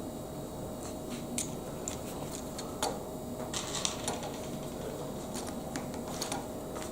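Lego Technic plastic parts being handled and pressed together: scattered sharp clicks, a couple of them in quick runs, over a faint steady hum.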